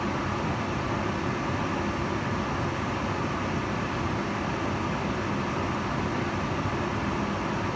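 Kitchen range hood fan running steadily: an even whooshing rush of air with a faint low hum from the motor.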